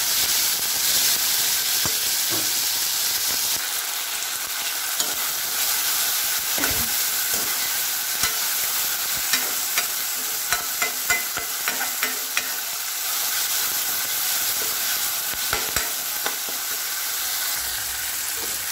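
Chopped tomatoes and onion sizzling in hot oil in a wok, stirred with a steel spoon. The frying hiss is steady throughout, and the spoon clinks and scrapes against the pan, mostly in a run about halfway through.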